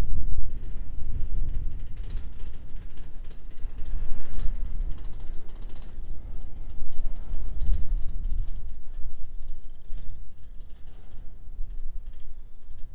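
Freight train cars rolling past: a low rumble with rapid clicking and creaking from the wheels and cars. The clicking thins out after about six seconds.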